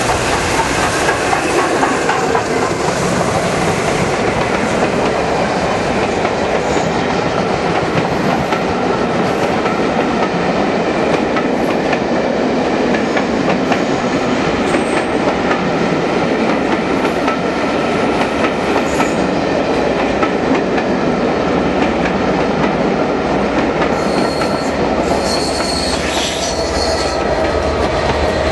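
Railway carriages rolling steadily past at close range: wheels on the rails with clickety-clack over the joints and some wheel squeal, with a thin high squeal showing near the end.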